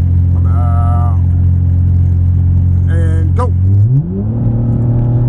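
2017 Chevy Impala's engine droning steadily in the cabin while driving. Its pitch rises to a higher steady note about four seconds in as the revs climb.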